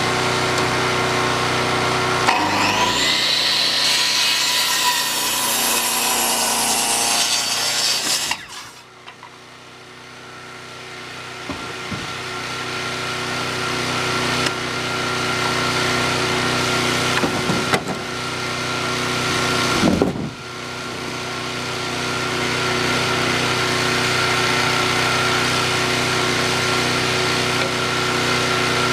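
Milwaukee 10-1/4 inch corded circular saw running and cutting through a 4x6 wooden beam, a steady motor whine under the noise of the blade in the wood. The sound drops sharply about eight seconds in, then builds back up as the cut goes on.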